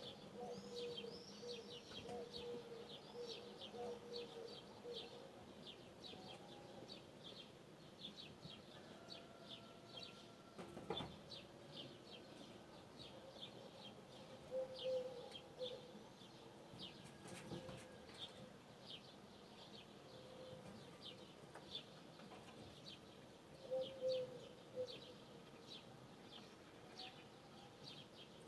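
Morning birdsong: one bird repeats short, high chirps about two times a second without a break, while lower, longer calls come in now and then. A couple of faint knocks sound, one about eleven seconds in and one near seventeen seconds.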